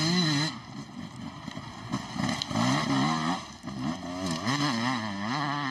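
Enduro motorcycle engine revving hard, its pitch rising and falling quickly over and over as the throttle is worked, with a couple of short drops in loudness between pulls.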